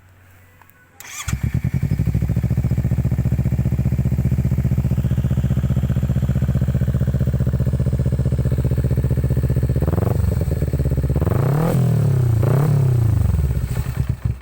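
Kawasaki Ninja four-stroke motorcycle with an aftermarket racing exhaust starting up about a second in and idling steadily, then revved three times near the end, each rev rising and falling.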